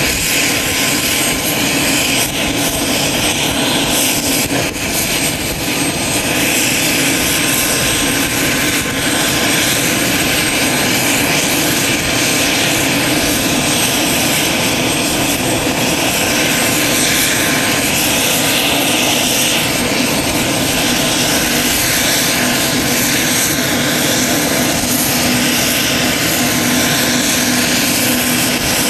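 UH-60 Black Hawk helicopter's turboshaft engines running during startup: a loud, steady turbine whine and rush, with a high steady tone throughout and a lower tone that comes up about three quarters of the way through.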